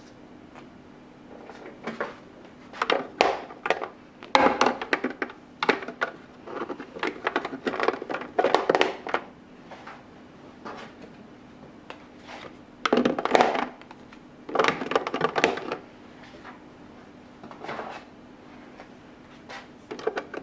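Plastic storage containers and food items handled and set down, in irregular bursts of knocks and clatters, over a faint steady hum.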